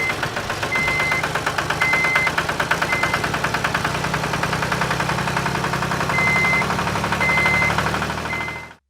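Small engine running steadily with a rapid, even knock. Short high beeps sound on and off over it.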